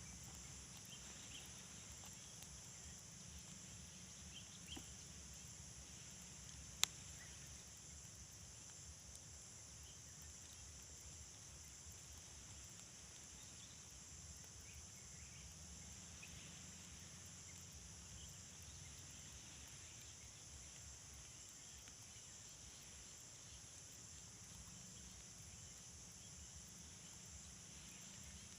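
Faint, steady, high-pitched insect drone, with a few scattered short bird chirps and a low rumble underneath. One sharp click about seven seconds in.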